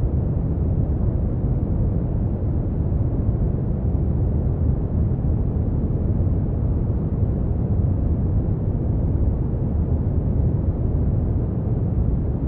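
Brown noise: a steady, deep rumbling hiss, heaviest in the bass and dark at the top, with no change in level.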